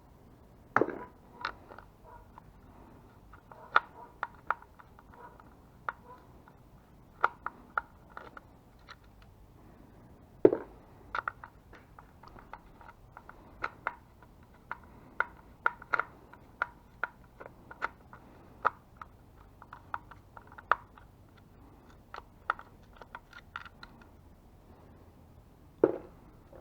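Irregular clicks, taps and small metallic knocks of hand tools and loose hardware being handled while the bolts and washers of an e-bike motor controller are removed, with a few louder knocks about a second in, about ten seconds in and near the end.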